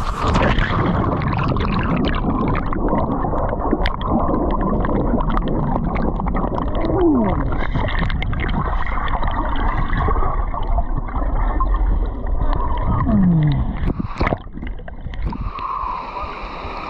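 Rushing, gurgling creek water pouring down a natural rock slide, heard close and muffled, with two short falling tones partway through. It eases off near the end.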